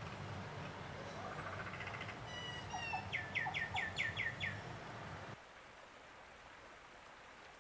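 A bird calling a quick series of about six falling whistled notes, over a steady low hum. The hum drops away suddenly about five seconds in, leaving a quieter background.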